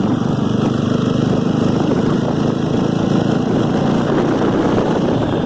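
Jawa Standard's 293cc single-cylinder liquid-cooled engine running steadily as the motorcycle is ridden.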